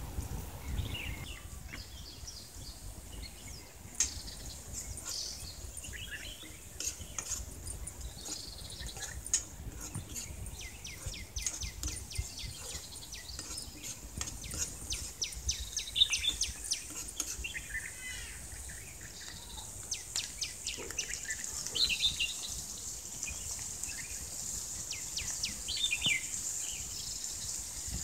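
Small birds chirping in short notes and quick rattling runs, over a steady high insect-like hiss.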